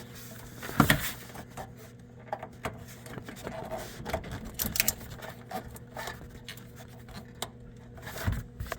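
Hands working a new rubber vacuum hose through the wheel well: irregular rubbing, scraping and small clicks of hose against plastic, with a couple of louder knocks, over a steady low hum.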